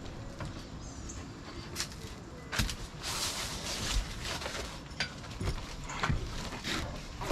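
Scattered knocks and clatter with rustling, from ropes and gear being handled and moved about aboard a sailboat.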